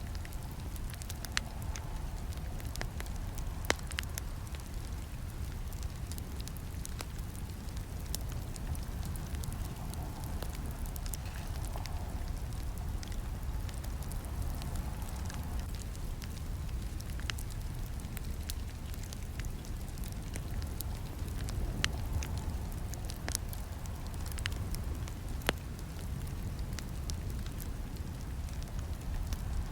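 Campfire burning steadily, with a low rumble of flames and scattered sharp crackles and snaps of burning wood, a few of them louder.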